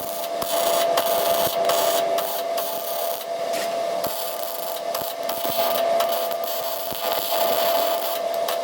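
Electric arc welding on scrap steel: a steady crackling sizzle of the arc, broken by many sharp pops and a few brief pauses in the bead.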